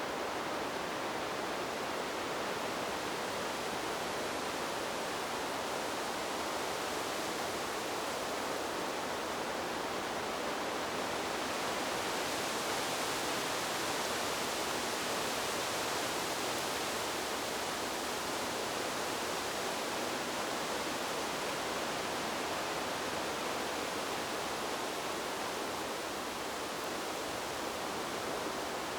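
Wind blowing steadily through trees: an even rushing hiss with no distinct gusts or other events, swelling slightly in the middle.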